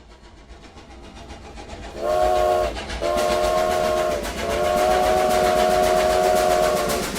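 Steam locomotive sound effect: a rhythmic chugging fades in and grows louder, then the steam whistle blows three times, one short blast and two long ones, several notes sounding together.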